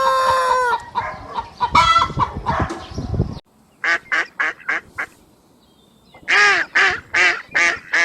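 A rooster's long crow ends and chickens cluck. After an abrupt cut, a bird gives two bouts of short honking calls: about five quick ones, then a louder run of about six.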